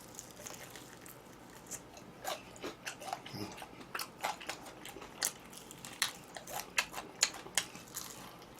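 Crunching bites and chewing of crispy fried chicken (Kyochon Honey Combo), a series of sharp, irregular crunches.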